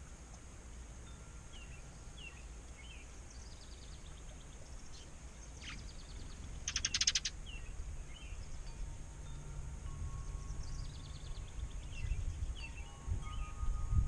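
Wild songbirds chirping outdoors: scattered short chirps, with one loud, rapid trill about seven seconds in, over a low rumble.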